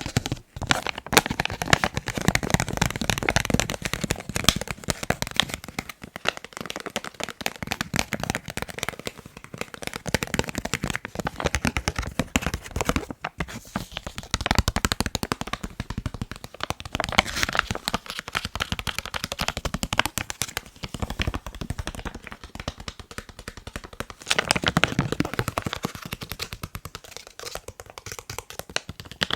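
Fast fingertip tapping on a face mask: a dense run of quick taps that swells and eases, with a few brief pauses.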